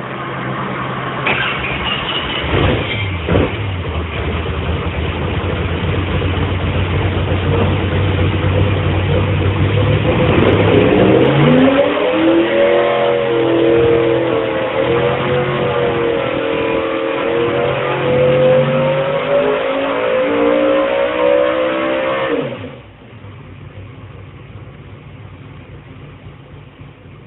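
Car engine running loud, its pitch climbing steeply about halfway through and holding high with a wavering note as it revs, then dropping suddenly to a quieter, steady idle a few seconds before the end.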